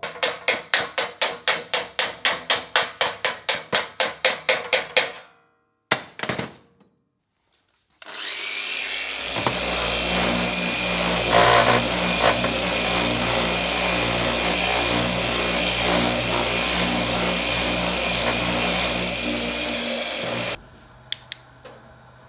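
Metal bodywork tools: rapid sawing strokes, about four a second, for roughly five seconds, then a power tool starts about eight seconds in, runs steadily for about twelve seconds and cuts off suddenly.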